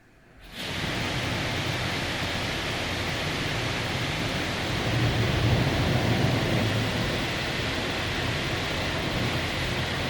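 LaserWash 4000 touchless car wash starting its high-pressure water spray with a sudden onset after a pause, then a steady loud rush of jets and pump that swells a little midway.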